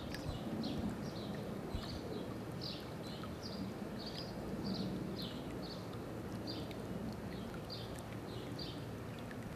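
A small bird chirping, short high chirps about two a second, over a steady low outdoor rumble.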